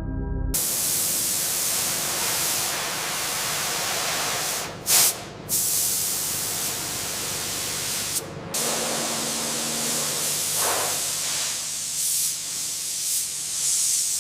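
Steady hissing spray, as from an air-driven nozzle working on the rusted body, breaking off briefly twice near the middle.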